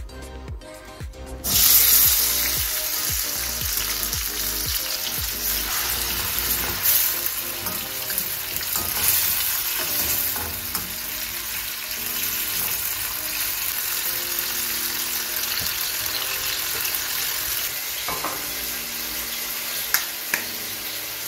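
Chopped tomatoes, onions and scotch bonnet pepper hitting hot vegetable oil in a stainless steel pan: a loud sizzle bursts out about a second and a half in and settles into steady frying. Two sharp taps near the end.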